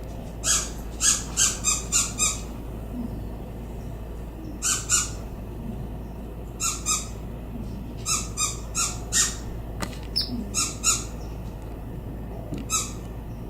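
A bird giving short, harsh, buzzy calls in quick runs of two to five, with pauses of a second or two between runs.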